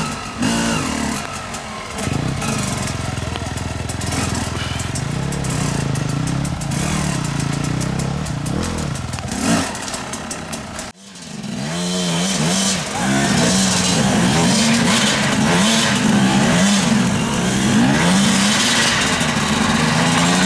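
Motorcycle engines running and revving, their pitch rising and falling. The sound cuts off abruptly about eleven seconds in, then resumes with the engine note wavering up and down more often.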